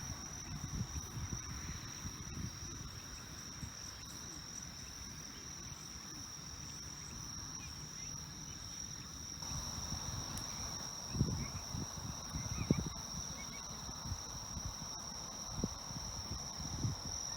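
Insects singing in one steady, unbroken high-pitched drone, with low bumps and rumbles that grow stronger from about ten seconds in.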